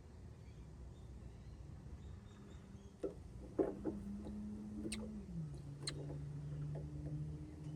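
A few light clicks and knocks from handling the smoke leak detector's fluid refill, over a low steady hum that starts partway through and drops in pitch about halfway.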